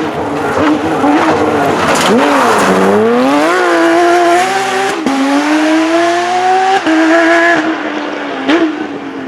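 Porsche GT3 rally car's flat-six engine at racing speed: the pitch dips about two seconds in, climbs hard, steps down at an upshift around five seconds in and pulls up again, then drops as the throttle comes off, with one short blip near the end.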